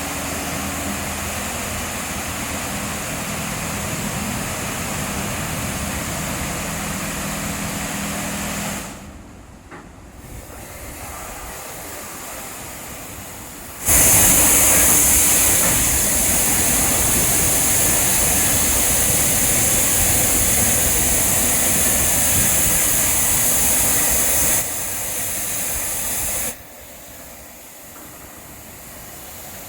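Touchless car wash machine running: a steady spray with a low pump hum, then a much louder high-pressure water-jet hiss that starts suddenly about halfway through and cuts down twice near the end.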